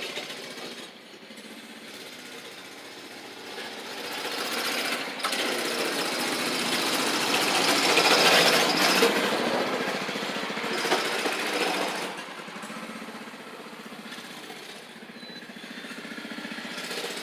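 Small gas mini bike engine running, swelling to its loudest about eight seconds in and then fading again.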